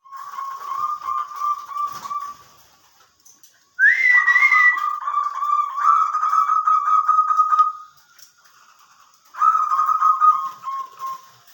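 Zebra dove (perkutut) cooing: three bouts of fast, trilled coos, the middle and longest one opening with a higher rising note.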